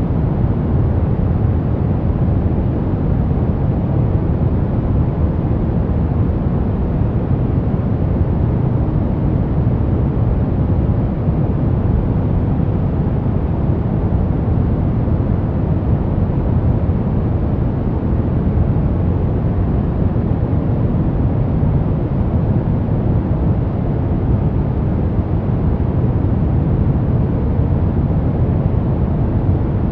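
Steady, unchanging white noise for sleep: an even, deep rushing hiss that is heaviest in the low range and thins out toward the top.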